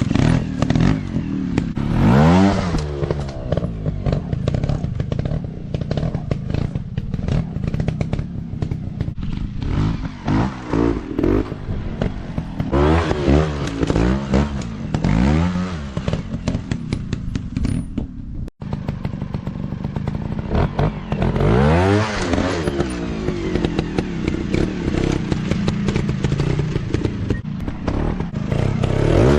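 Dirt bike engines revving up and falling back again and again, with clattering and thuds mixed in. The sound cuts out for an instant past the middle.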